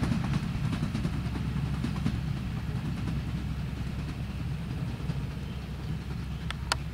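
Broad-gauge passenger train rumbling along the track in the distance, the sound slowly fading as it moves away. A couple of sharp clicks come near the end.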